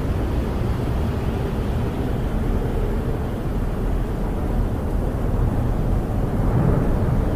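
Snowstorm wind buffeting a camper, heard from inside as a steady low rumble that swells slightly near the end.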